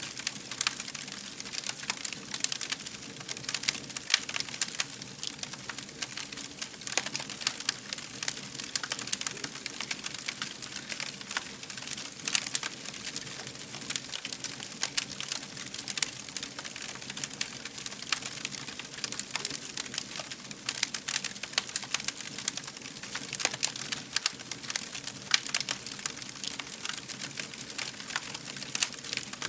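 Fire crackling: a dense, irregular run of small pops and snaps over a steady hiss, with a few louder snaps.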